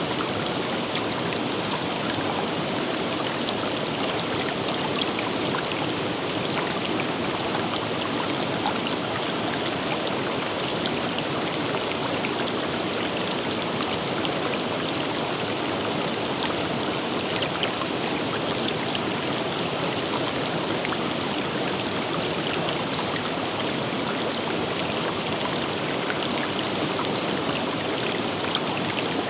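Forest river running steadily, a constant rush of flowing water with small splashes scattered through it.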